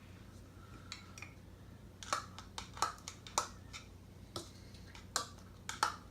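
A spoon knocking against the inside of a cup, clicking sharply and unevenly about once or twice a second from about two seconds in, as an egg yolk is mixed into butter and sugar.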